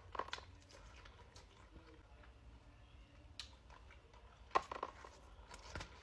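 A person eating close to the microphone: quiet chewing with a few scattered sharp clicks and smacks, the loudest about two-thirds of the way in and again near the end.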